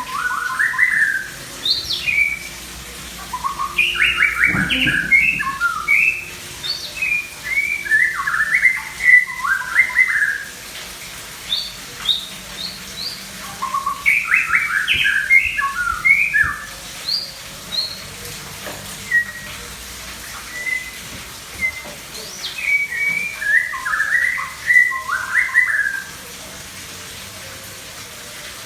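Songbird singing in several bouts of quick, rapidly rising and falling chirps and whistles, with short pauses and a few single high notes between the bouts.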